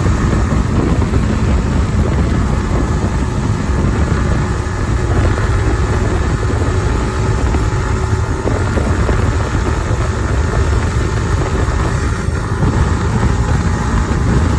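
Kawasaki ZX10R's stock-exhaust inline-four engine running steadily while riding, under a heavy wind rumble on the phone microphone.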